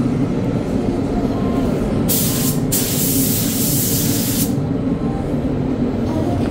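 Paint spray gun hissing in two back-to-back passes of compressed air, starting about two seconds in and stopping about four and a half seconds in, over a steady low rumble.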